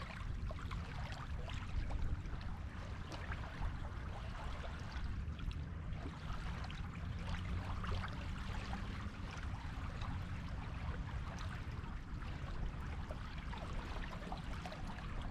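Sea surf washing on a beach: a steady rush of waves with a deep rumble underneath and fine crackling and fizzing throughout.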